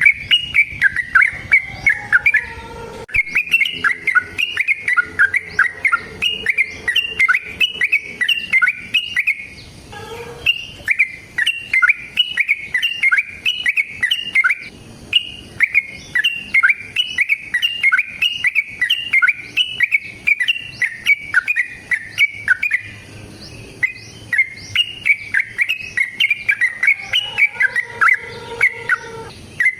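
Yellow-vented bulbul (trucukan) singing in long, rapid runs of bubbly chirping notes. There are brief pauses about three, ten and twenty-three seconds in.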